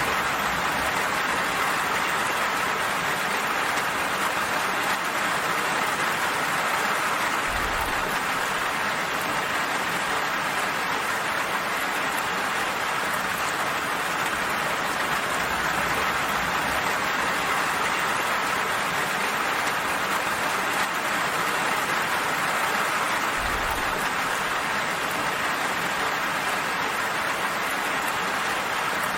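Gentle rain falling steadily, an even hiss that does not let up.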